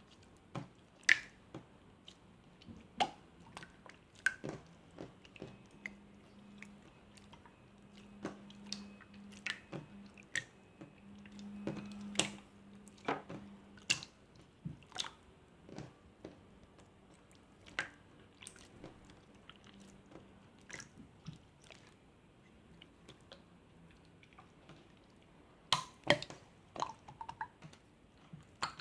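Slime being squeezed and poked by hand, making irregular wet clicks and pops. The slime is soft and sticky from the summer heat.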